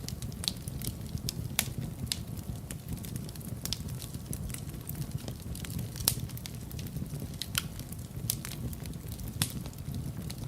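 Wood fire burning in a fireplace: a steady low rumble of the flames with frequent sharp crackles and occasional louder pops.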